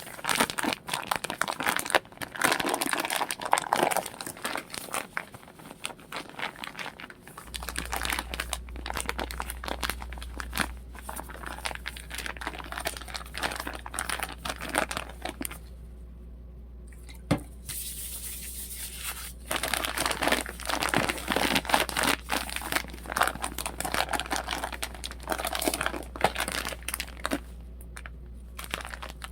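Plastic crinkling and rustling in irregular bursts as it is handled, with a steady low hum from about seven seconds in.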